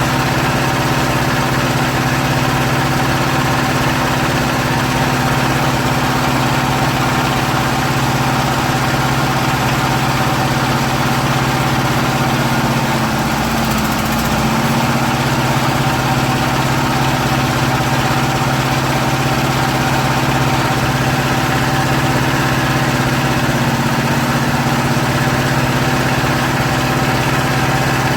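Hydraulic power unit of a paving-block press running steadily, a motor-driven pump giving a constant hum with a brief sag in pitch about halfway through.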